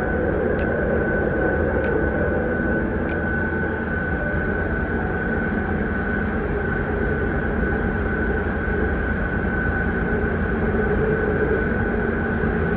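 M4 metro train running, heard from inside the car: a steady deep rumble with a constant high whine above it, and a few light clicks in the first few seconds.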